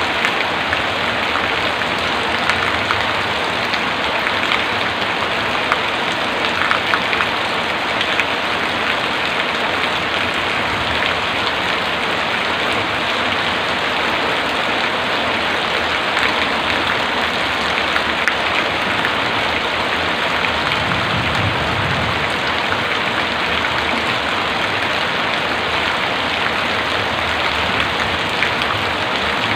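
Heavy rain falling steadily, a dense hiss of drops with scattered sharper drop hits. A brief low rumble comes about two-thirds of the way through.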